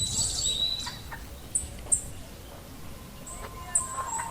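Wild birds chirping: short, high notes in quick clusters, densest in the first second, then scattered single chirps and a fresh burst near the end.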